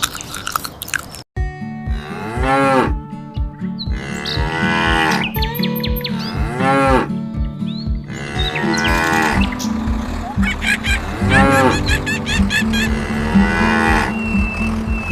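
Cartoon cows mooing about five times, each moo about a second long, rising and then falling in pitch, over background music with a steady beat.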